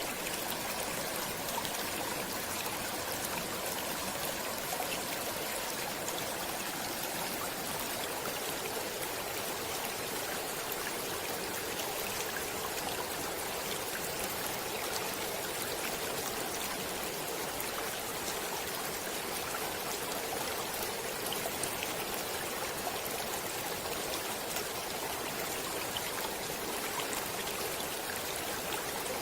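A stream's water running steadily over rocks: a continuous rushing babble with fine splashing and trickling throughout.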